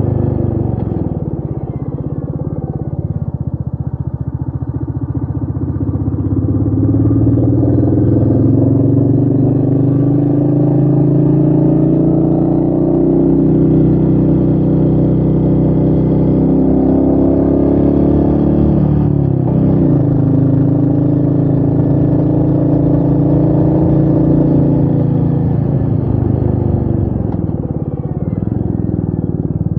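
Royal Enfield Meteor 350's single-cylinder engine pulling under acceleration, its note climbing steadily, dropping sharply and climbing again at a gear change about two-thirds through, then falling away near the end as the bike eases off.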